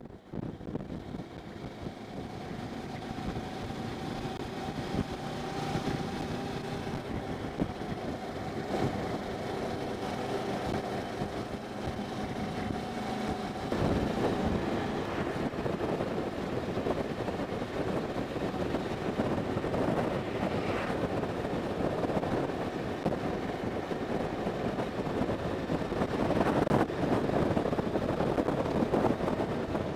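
Motorcycle riding along, engine running steadily under a heavy rush of wind noise that builds over the first few seconds and grows louder in stretches, as heard from a helmet camera.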